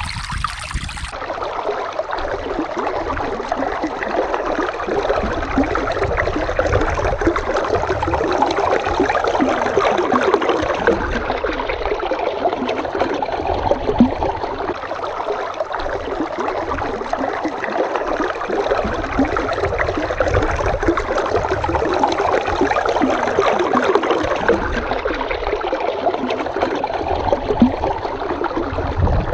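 A babbling stream: water running steadily with a continuous, even rush and fine flickering splashes.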